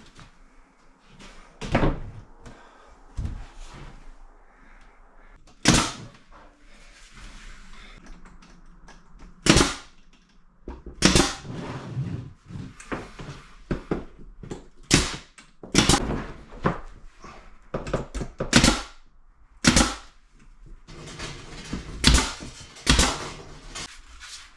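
An irregular series of sharp knocks and bangs, about twenty in all, sparse at first and then coming in quick clusters in the middle.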